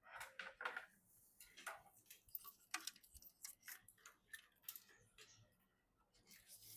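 Faint, irregular clicks and ticks of computer parts being handled and fitted by hand, several a second, thinning out near the end.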